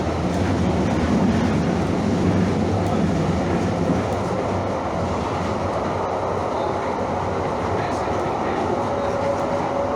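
Calgary CTrain light-rail car running along the track, heard from inside: a steady rumble of wheels and running gear, with a faint steady tone coming in near the end.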